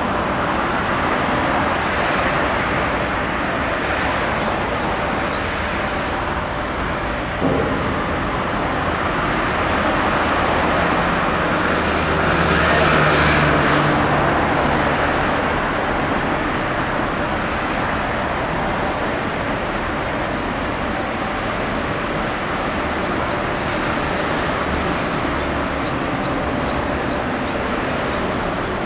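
Steady outdoor road-traffic noise, with a motor vehicle passing about halfway through and a single short knock early on.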